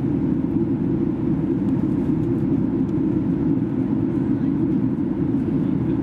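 Steady engine and airflow drone inside the cabin of a Boeing 737-800, its two CFM56-7B turbofans running. The low rumble is even, with a faint hum of steady tones above it.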